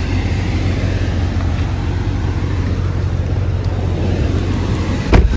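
Mercedes-AMG GLE 63 S twin-turbo hybrid V8 idling with a steady low rumble, then the driver's door is pulled shut with one loud thump near the end.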